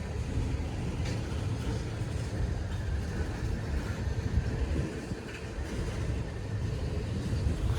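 Freight train cars rolling past at low speed: a steady low rumble with no sharp bang.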